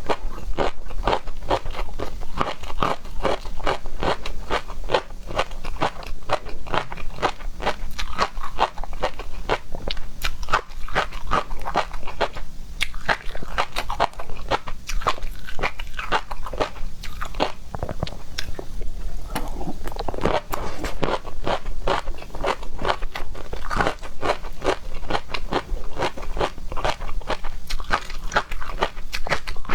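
A person chewing and crunching seafood close to the microphone: a constant stream of crisp, wet crunches and crackles.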